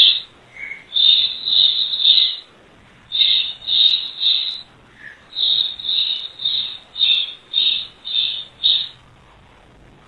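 A run of short, high-pitched chirps or squeaks, about two a second, coming in groups of three and then a longer string of about eight, with brief pauses between groups.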